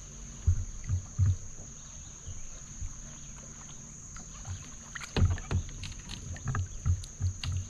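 Low, hollow knocks and bumps on a fishing kayak's hull, a few early and a quicker run in the last few seconds.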